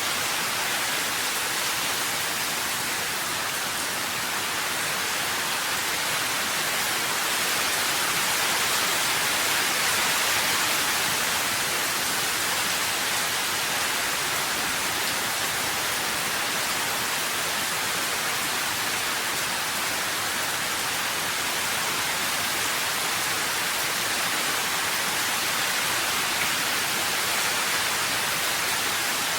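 Steady, even rain hiss with no separate drops, thunder or voices standing out.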